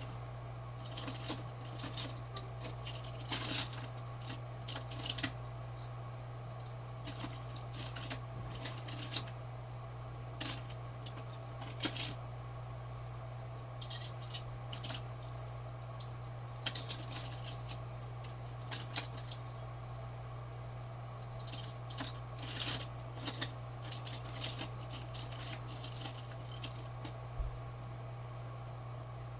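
Clusters of light clicking and rattling that come and go several times, over a steady low hum.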